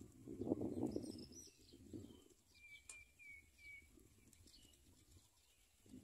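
Wild birds chirping, with a row of three short, even chirps about two and a half seconds in and scattered higher notes. A low rumbling noise fills the first two seconds.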